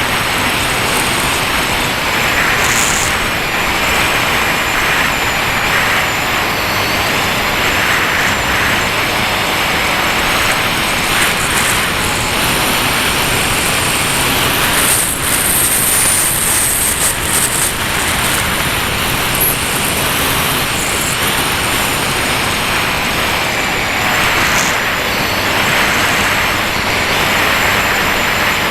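Steady rushing airflow over an RC plane in flight, with a faint wavering whine from its electric motor underneath.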